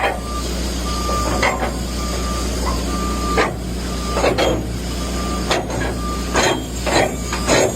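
Cryogenic tanker unloading equipment running with a steady low hum, a short electronic beep repeating about once a second through the first few seconds. In the second half come several sharp bursts of hiss and clank.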